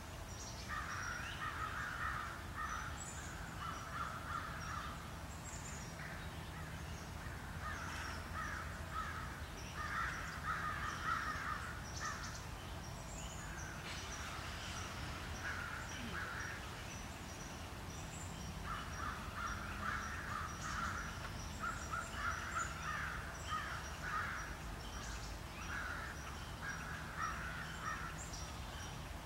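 Birds calling in repeated bouts a second or two long, a few seconds apart, over a low steady rumble.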